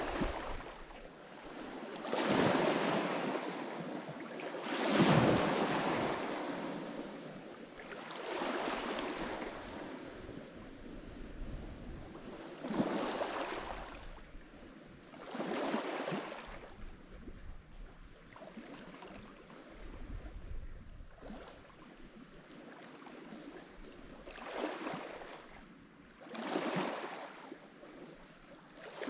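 Lake Michigan waves breaking on a rocky shore: a string of separate surging crashes every two to three seconds, with the wash rushing back in between.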